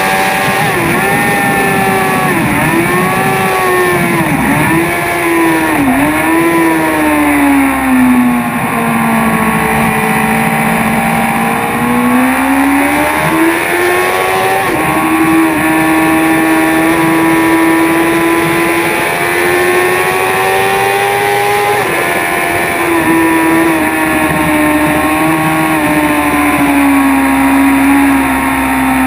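BMW S1000RR inline-four sport bike engine heard from on board with heavy wind rush. Under hard braking from high speed the revs dip and jump several times in the first seven seconds as the rider downshifts, then run low through a slow corner. About 12 seconds in the engine revs up accelerating out, with upshifts about 15 and 22 seconds in.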